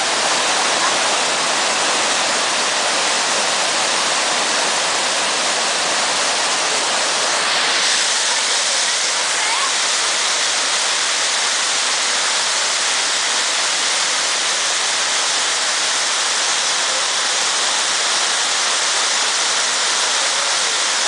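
Waterfall rushing: a steady, loud hiss of falling water, a little brighter from about seven seconds in.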